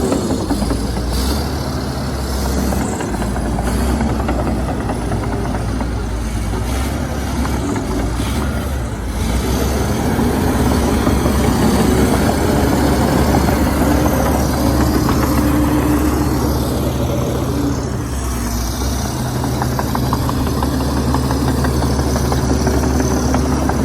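Heavy diesel engine of earthmoving machinery running steadily. It grows louder about ten seconds in and eases off briefly twice as the load changes.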